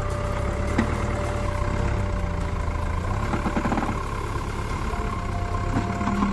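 Heavy machine's engine running steadily at low revs, with a few brief knocks, one about a second in.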